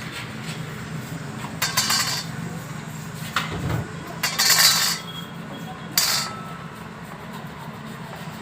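Metal tools and parts clinking and scraping in several short bursts during motorcycle servicing, over a steady low hum.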